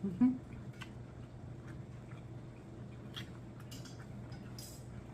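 Slow chewing of a mouthful of spaghetti shrimp taco: scattered soft mouth clicks and wet smacks, a few seconds apart, over a low steady hum.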